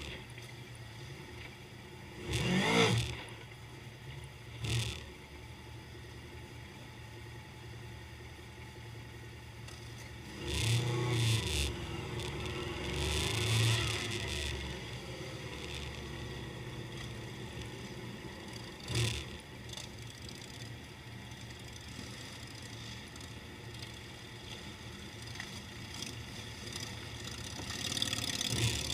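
Motorcycle engines idling in a steady rumble, with bikes revving and going past several times, the loudest swells about three seconds in and again around eleven to fourteen seconds.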